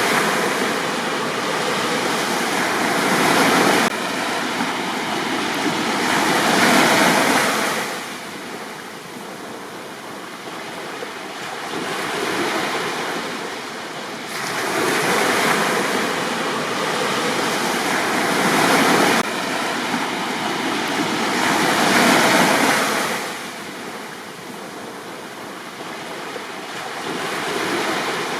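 Sea waves breaking and washing up on a beach: a steady rush of surf that swells louder and eases off again in surges several seconds long.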